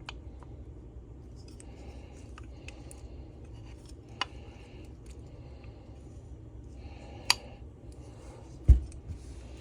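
Small hand tools working on the metal crankcase of a McCulloch leaf blower as its case screws are tightened: sharp metallic clicks and short raspy bursts like a ratchet. A dull thump near the end is the loudest sound.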